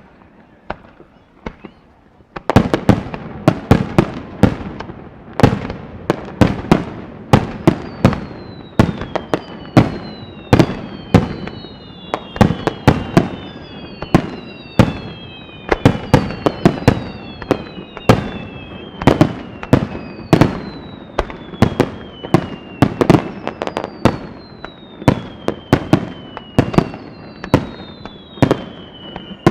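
Fireworks display: after a couple of quiet seconds with a few faint pops, a rapid barrage of aerial shells starts bursting, several sharp bangs a second. From about a quarter of the way in, falling whistles sound again and again between the bangs.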